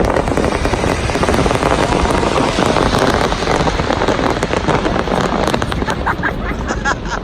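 Fireworks crackling densely: many small pops running together into a rain-like crackle, with crowd voices underneath.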